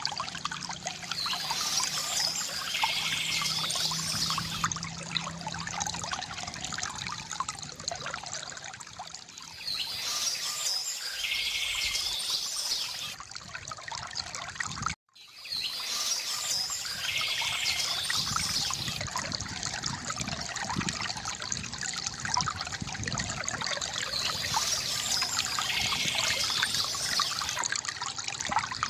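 Water trickling and pouring steadily from a bamboo fountain spout, with birds chirping in the background now and then. The sound cuts out for an instant about halfway through, then resumes.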